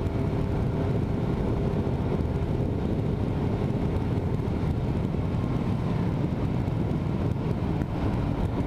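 Motorcycle engine running under way, with wind rushing over the microphone; a steady engine tone is faintly audible in the first few seconds.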